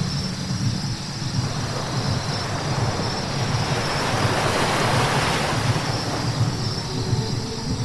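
Car tyres hissing on a wet road over a steady low rumble from the vehicle, the hiss swelling and easing, loudest about five seconds in.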